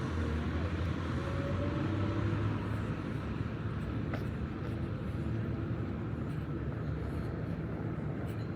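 Street traffic: cars running past with a steady low hum of engines and tyres.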